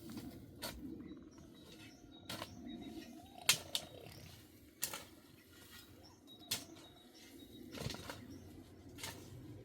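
A string of sharp knocks and clicks, about eight of them at uneven intervals, over a steady low rumble.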